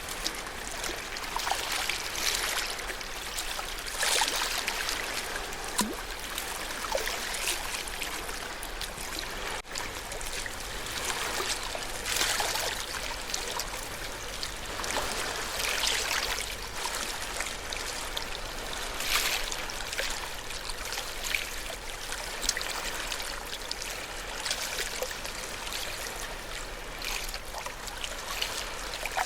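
Small ocean waves washing and lapping at the shore: a continuous wash of moving water with frequent small splashes.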